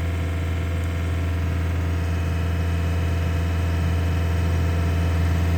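Skid steer engine running steadily, a constant low drone with no change in speed.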